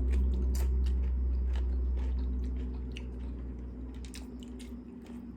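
Close-miked chewing and biting of food, with scattered crunchy clicks. A steady low hum runs underneath and dies away near the end.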